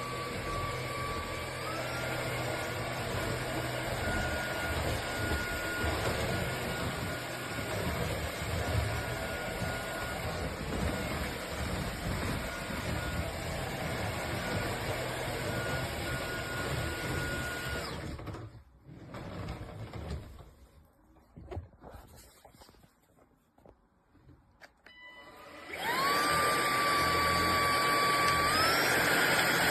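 Cordless stick vacuum's motor running with a steady high whine that steps up in pitch about two seconds in. It cuts out at about eighteen seconds, leaving a few faint knocks. Near the end it spins up again with a rising whine, and the pitch steps up once more.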